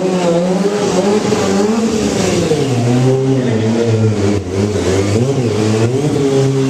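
Stunt motorcycle's engine revving, its pitch rising and falling as the throttle is worked through tricks.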